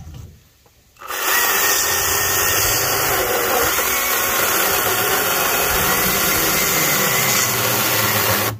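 Greenworks GS110 battery-powered top-handle chainsaw starting about a second in and running steadily as it cuts through a firewood log, then cutting off suddenly near the end as the saw stalls, which happens when it is not running in high power mode.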